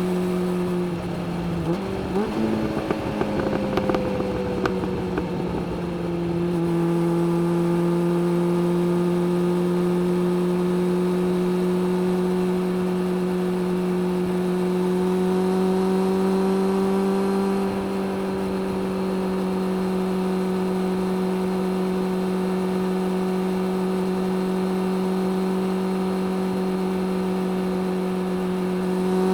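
Suzuki GSX-600F's inline-four engine under way, heard from the rider's seat. The engine note goes rough and uneven with some knocks for a few seconds near the start. It then holds a steady, slightly climbing pitch, steps down a little around the middle, and starts rising again at the end.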